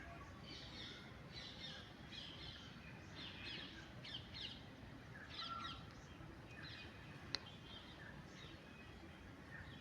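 Birds calling outdoors: a run of short, high calls repeated one after another about every half to one second, over faint background noise, with a single sharp click about seven seconds in.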